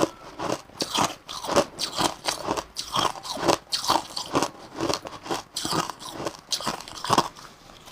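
Crushed ice crunched between the teeth and chewed: a quick, steady series of crisp crunches, about two a second.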